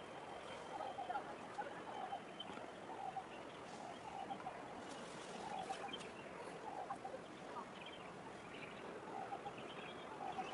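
Steady outdoor background noise with short bird calls repeating every second or so.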